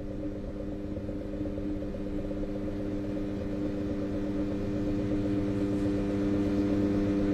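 A steady droning hum of several held tones, slowly getting louder.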